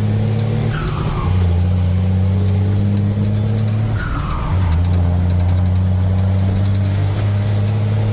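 Truck engine running under way, a steady low drone that shifts pitch about a second in and again around four seconds, each time with a faint falling squeal.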